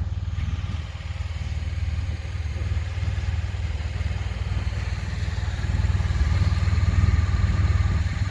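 Motorcycle engine running, a Honda Crosstourer's V4, with a steady low rumble that grows a little louder over the last few seconds.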